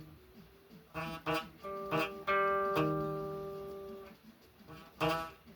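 Guitar chord played slowly, picked string by string as an arpeggio from about a second in, then left ringing and fading for about two seconds. Another strum comes near the end.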